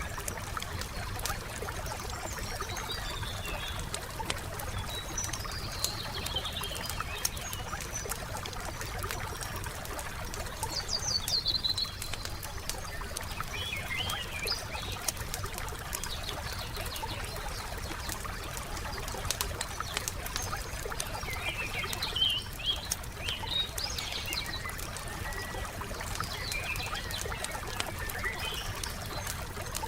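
Campfire crackling with frequent small sharp pops, under songbirds chirping and trilling on and off, loudest about eleven seconds in and again past twenty seconds. A soft watery trickle runs beneath.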